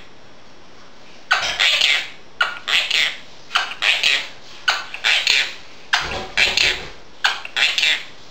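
Quaker parrot chattering in six short bursts of speech-like mimicry, about one a second, without clear words.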